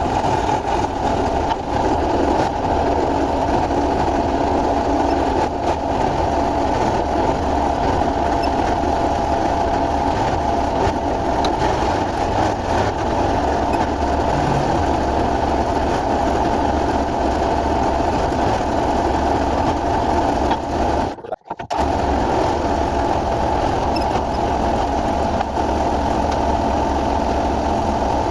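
An engine running steadily, with a brief cut-out about 21 seconds in before it carries on.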